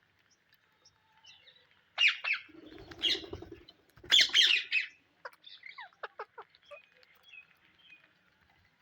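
Psittacula parakeets giving two loud bursts of harsh squawks about two and four seconds in, with a low rumble between them. A run of short, quick, falling chirps follows.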